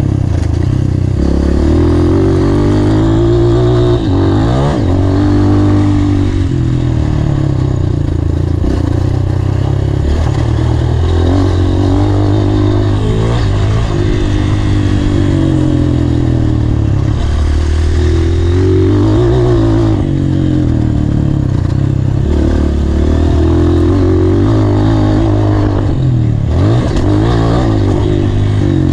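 Honda CRF230 dirt bike's single-cylinder four-stroke engine, ridden hard, revving up and dropping back again and again as the pitch climbs and falls through the gears.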